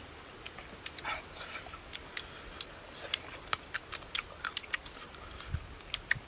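Eating roasted rat: sharp, irregular crunching clicks, a few a second, as cooked meat and small bones are bitten and chewed.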